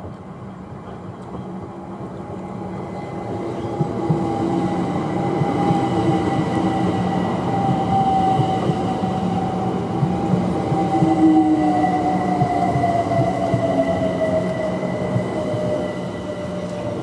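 Electric multiple-unit passenger train running through the platform, growing louder over the first few seconds and then easing. Its motor whine falls in pitch in the second half as the train slows, over a steady high tone and rail rumble.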